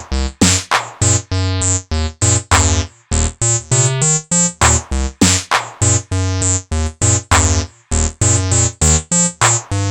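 Acid synth sequence from the acidmachine, a TB-303-style bassline playing a fast run of short pitched notes, about four or five a second, some with a much brighter top than others.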